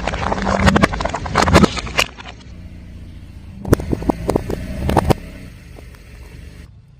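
Car tyre rolling over and crushing brittle objects: a dense run of cracks and crunches for the first two seconds, then a second cluster of sharp snaps about four to five seconds in, over the low hum of the car.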